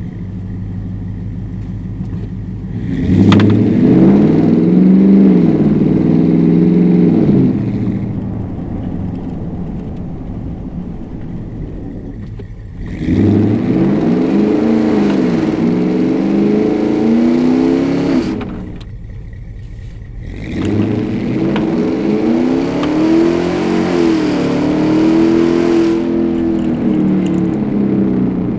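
Ford 7.3L Godzilla V8 breathing through long-tube headers and a custom exhaust, making three hard full-throttle pulls. In each pull the revs climb and drop back through the gear changes, with quieter, steady running between the pulls.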